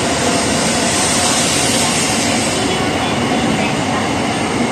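E2 series Shinkansen train departing, its cars running past close by with a steady loud rush of wheels and traction motors as it gathers speed.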